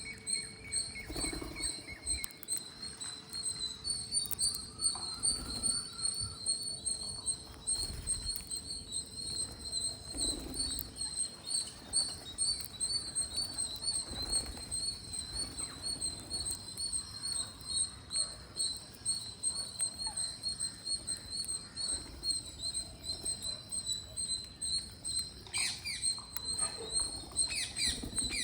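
Birds chirping while feeding: a high, fast-pulsing chirp runs steadily throughout, with a few short lower calls and soft tapping. A cluster of sharper calls comes near the end.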